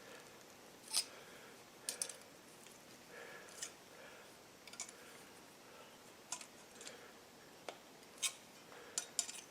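Scattered light metallic clicks and taps from tools handling a small #16 horseshoe nail as it is bent around cold, without reheating. The clicks come at irregular intervals, the loudest about a second in.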